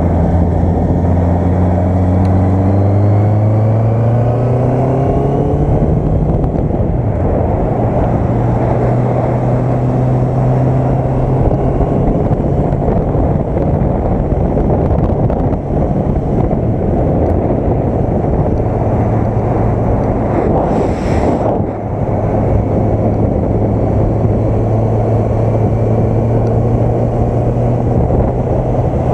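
Honda CB650F's inline-four engine pulling under way, rising in pitch over the first few seconds and then running steadily, with heavy wind noise on the microphone. A brief louder rush of noise comes about two-thirds of the way in.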